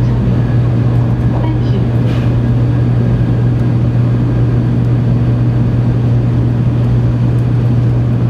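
Steady loud rumble of a 700-series Tokaido Shinkansen running at speed through a tunnel, heard from inside the passenger cabin, with a strong low hum.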